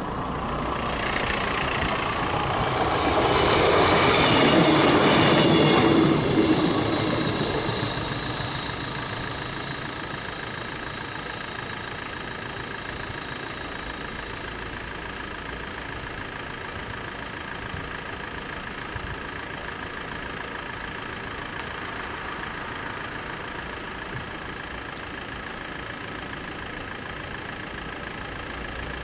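SA103 diesel railbus passing over the level crossing, growing louder and loudest about four to six seconds in, then fading away to a steady low background.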